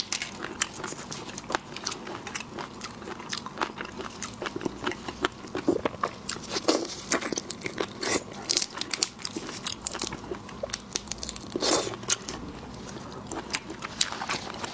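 Close-up eating of seafood: crunchy bites and chewing, with a dense run of sharp, crackly clicks and a few fuller, wetter bites.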